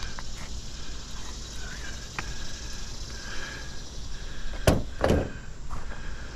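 Two sharp knocks about half a second apart near the end, with a few lighter clicks earlier, from hand work on brittle asphalt roof shingles.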